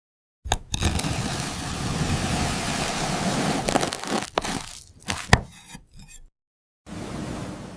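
Honeycomb being cut, the wax comb crackling and tearing, with a few sharp cracks about four to five seconds in.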